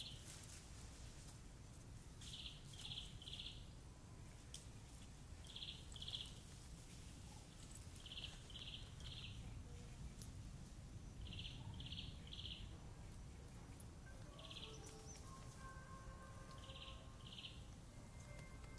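A bird calling faintly in short high notes, in groups of two or three, repeated every few seconds, over a steady low rumble of outdoor background noise.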